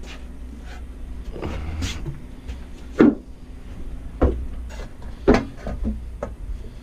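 Three sharp knocks, about a second apart, over a steady low hum of running machinery.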